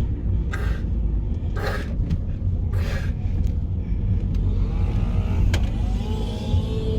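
Car cabin noise while driving: a steady low rumble of engine and tyres, with three short hissing swishes in the first three seconds and a single sharp click later on.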